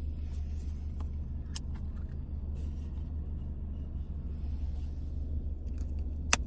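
Steady low rumble of a car's engine idling, heard from inside the cabin, with a few light clicks and one sharper click near the end.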